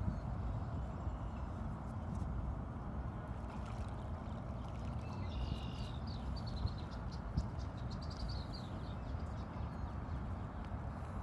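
Steady outdoor background noise with a small bird chirping a run of quick high notes from about five seconds in to about nine.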